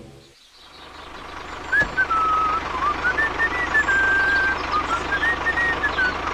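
A small motor running with a steady hum and fast fine pulse under a noisy whir. Over it a single high, wavering whistle-like tone steps and glides up and down like a tune.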